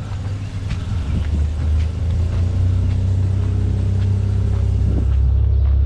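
Vehicle engine running with a steady low rumble, a few faint knocks over it.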